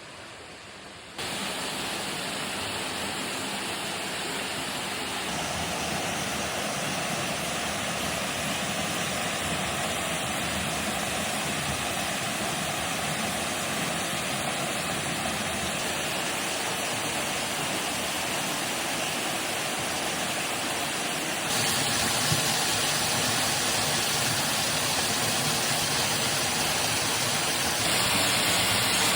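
Waterfall rushing steadily, jumping abruptly louder about a second in and again twice later.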